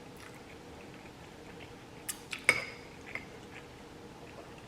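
Cutlery clinking against a dish: a few light clinks about two seconds in, the loudest ringing briefly, and one more a little later.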